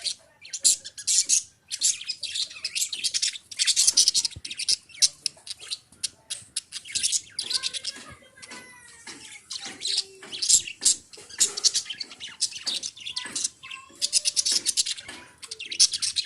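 Pet love birds, small parrots, chattering and chirping in rapid high-pitched bouts of a second or two, with short pauses and a few thin whistled notes between the bouts.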